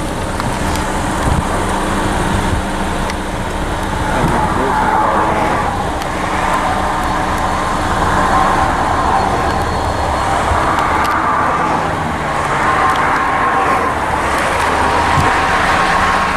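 Great Northern SD45 No. 400's 20-cylinder diesel engine running with a steady drone as the locomotive approaches shoving its car, the pitch of the drone shifting about halfway through.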